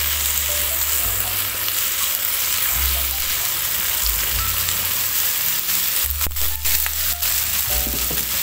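Freshly boiled long beans and carrots sizzling in hot oil in a coated wok as they are tipped in and stir-fried with a spatula, a steady frying hiss. A few sharp knocks of the spatula against the pan about six seconds in.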